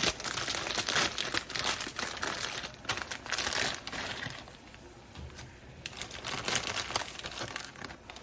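Plastic instant-noodle packaging being crinkled and handled, dense crackly rustling for about four seconds that then thins to fainter, occasional rustles.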